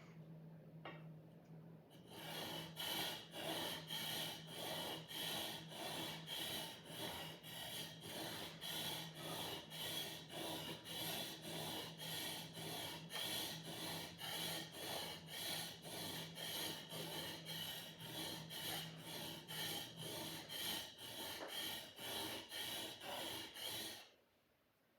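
A sword blade being sharpened: steady, even rasping strokes, about two a second, starting about two seconds in and stopping abruptly near the end.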